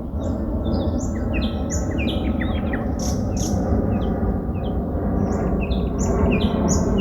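Songbirds singing: phrases of short, clear notes stepping down in pitch, repeated over and over, over a steady low rumble.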